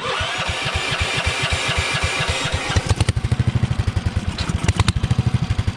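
Engine of a Honda off-road machine running, settling from about three seconds in into a loping idle of strong, even pulses, the lumpy idle of a big camshaft.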